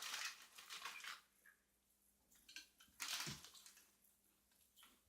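Faint crackling and crunching from a bag of Caribbean onion and balsamic potato chips being handled and the chips being eaten, in two bouts: one through the first second and another about three seconds in.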